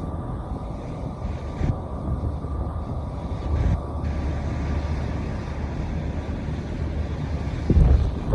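Wind buffeting the microphone in uneven gusts over a low rumble, with a faint steady high hum underneath and a louder gust near the end.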